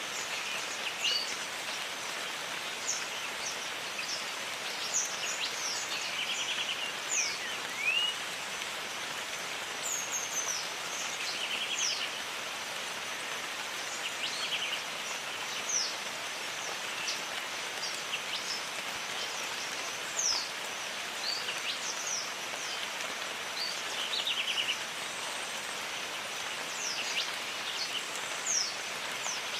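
Steady rain falling in a jungle, with birds calling over it: many short, high notes that slide downward, scattered through, and a few brief rapid trills.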